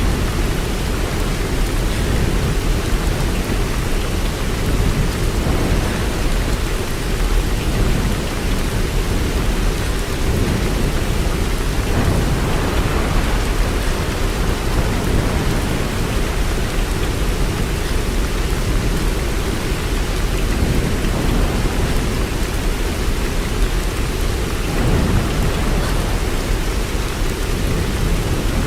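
Steady heavy rain, an even hiss with a strong low rumble underneath and a few gentle swells in level.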